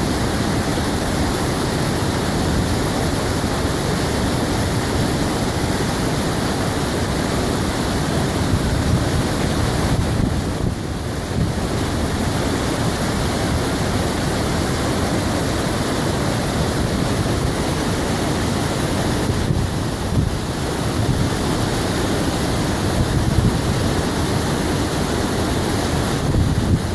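Steady rush of a waterfall about 20 metres high, the water pouring down and crashing into its pool.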